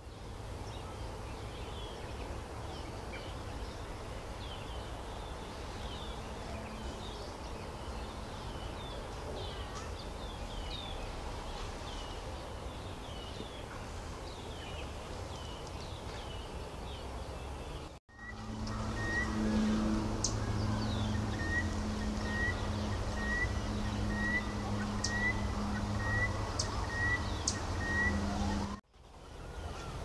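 Outdoor ambience of small birds calling in the trees: a run of short high chirps, then in the later part a regular series of short clipped notes about two every three seconds over a steady low hum.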